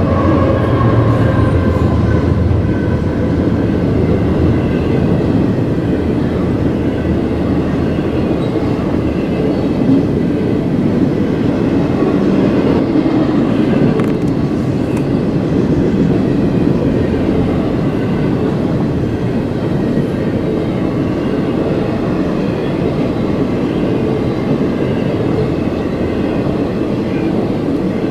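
CSX freight train rolling steadily past, its cars rumbling and rattling. A deep rumble from the distributed-power locomotive that has just gone by is strongest over the first several seconds, then eases off. Faint steady wheel whine runs underneath.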